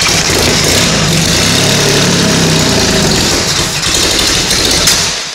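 Jaguar 4.2-litre DOHC straight-six being cranked over on its starter motor for about five seconds, primed with brake cleaner, without settling into a run: it is not yet taking much fuel. The cranking stops near the end.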